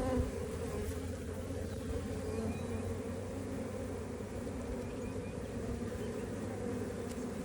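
Honeybees buzzing in a steady, continuous hum around an opened hive.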